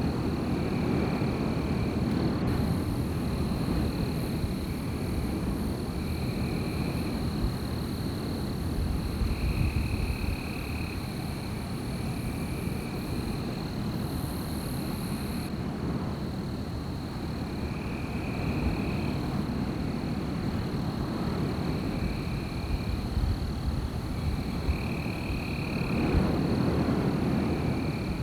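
Wind gusting through forest trees, a steady rushing that swells and eases every several seconds. Over it runs a steady high-pitched chirring, with short calls of about a second repeating again and again lower down.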